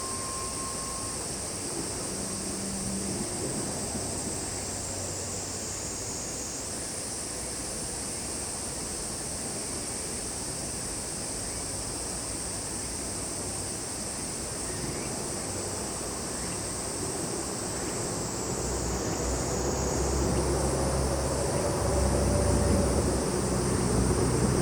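A steady, high-pitched chorus of summer insects keeps up without a break. In the last several seconds a low rumble, like an approaching vehicle, grows louder beneath it.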